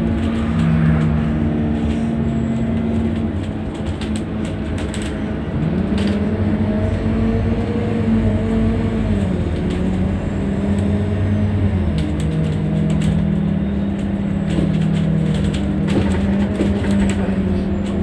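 Scania N230UD double-decker bus's diesel engine running under way, its note climbing about six seconds in and dropping back a few seconds later, with scattered rattles and clicks.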